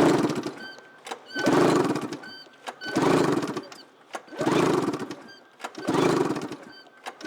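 2004 Arctic Cat F6 600 cc two-stroke twin being cranked over for a compression test on the clutch-side cylinder: five evenly spaced cranking strokes, about one every second and a half, with short clicks between them. The gauge on this cylinder comes up to 125 psi, the same as the magneto side, an even and healthy reading.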